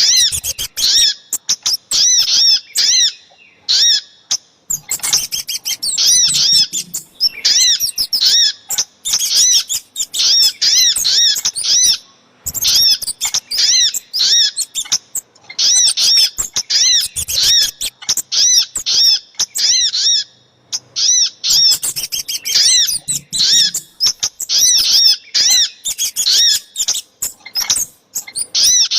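Bird-lure recording of spiderhunter (sogok ontong) and kemade calls: dense runs of high, arching chirps repeated several times a second, broken by brief pauses a few times.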